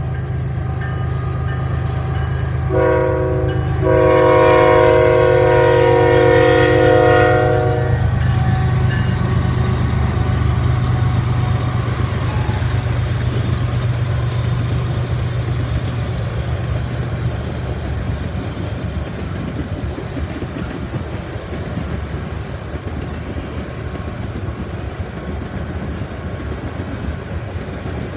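CN freight train led by GE ES44AC diesel locomotives passing: the diesel engine drones low, its air horn sounds a chord in a short blast about three seconds in and then a long blast of about four seconds, and the locomotive noise then gives way to the steady rumble and clatter of freight cars rolling by.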